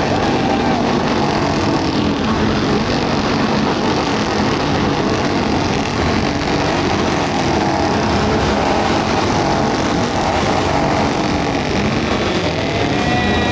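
Many motorcycles revving their engines at once, a loud, continuous mass of engine noise with pitches rising and falling as riders blip their throttles.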